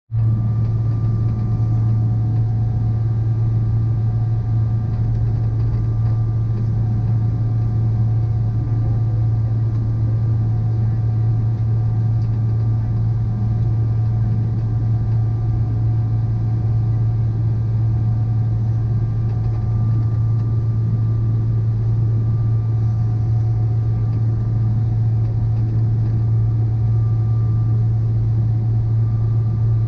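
Steady engine drone: a loud low hum with faint steady whining tones above it, unchanging throughout.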